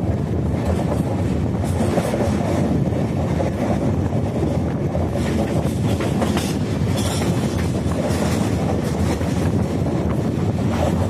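Indian Railways passenger train running at speed, heard from an open doorway of a coach: a steady rumble of wheels on rails with occasional clacks.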